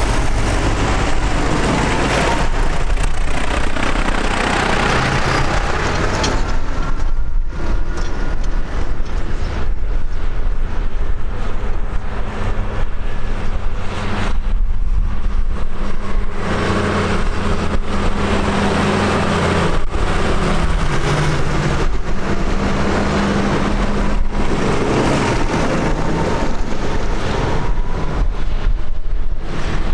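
Tractor engines running steadily, their engine note shifting as the machines move past.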